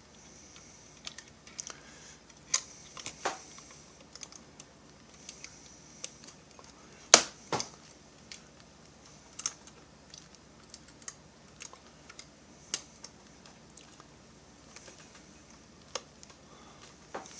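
Irregular light clicks and taps of small chainsaw parts being handled and fitted by hand, with two sharper knocks close together about seven seconds in.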